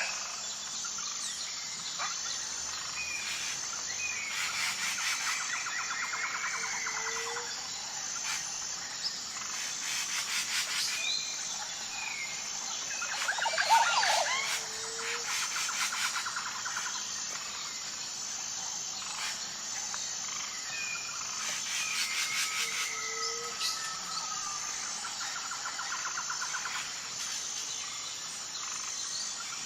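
Wild birds calling and singing, with chirps, short whistled calls and trills, over a steady high-pitched insect chirring. The same run of calls comes back about every ten seconds.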